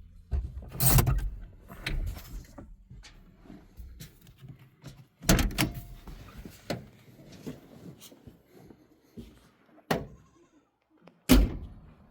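Car doors being opened and shut: a few separate sharp thuds spread out, the loudest near the end, with quieter rattling and handling between.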